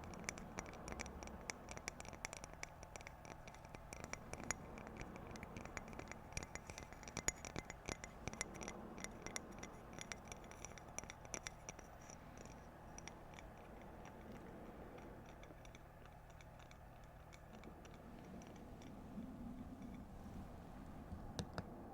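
Fingernails tapping and scratching on objects for ASMR: fast, light clicking that is dense for about the first half, then thins out to a few scattered taps.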